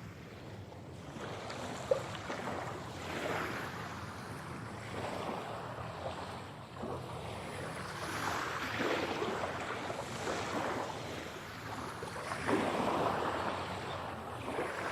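Sea waves surging in and breaking, the wash swelling and fading every couple of seconds, in an 8D mix made to circle around the listener on headphones. A single sharp click about two seconds in.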